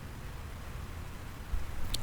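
Faint, steady low rumble of street background noise, with a couple of soft bumps near the end.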